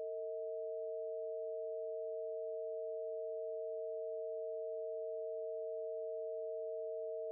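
Two pure sine tones held steadily together, about 461 Hz and 647 Hz: the Bb root and E of the Harmonics of Nature tuning sounding the augmented fourth (diminished fifth) interval.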